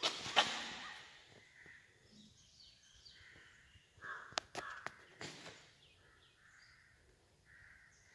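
Birds calling from the trees: scattered short high chirps and several harsher, rougher calls, faint. A few sharp clicks, loudest at the very start.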